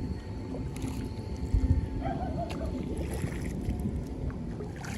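Low rumbling wind and water noise on the microphone, with one dull knock about one and a half seconds in.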